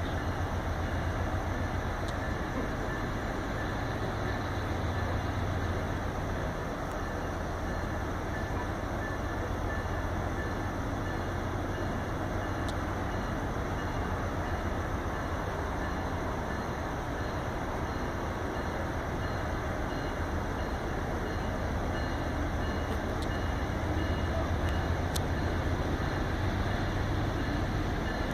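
Vale's Vitória–Minas passenger train running steadily, a continuous rumble of wheels and cars on the track with a constant low hum and an occasional faint click.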